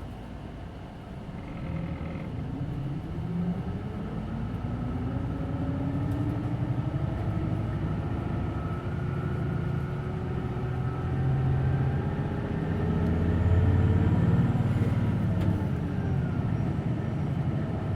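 Hino Blue Ribbon City Hybrid bus heard from inside while accelerating: a drivetrain whine rises in pitch over several seconds above a low engine rumble. The rumble grows louder toward the later part.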